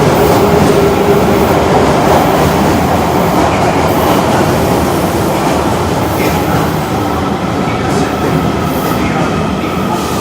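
Osaka Metro subway train running along the platform of an underground station: loud, steady wheel and rail noise with a faint steady whine, easing slightly toward the end.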